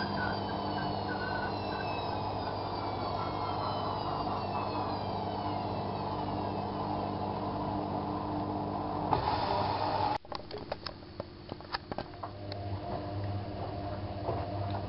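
Bauknecht WAK7751 washing machine running its drum motor, with a whine that falls in pitch as the drum slows. The running cuts off suddenly about ten seconds in, followed by a series of clicks and a low hum coming back. The owner says the drum bearing is slowly failing.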